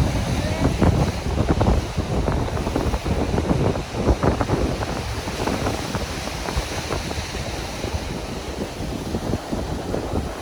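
Wind buffeting the microphone in gusts over the rush of waves on a beach, strongest in the first few seconds.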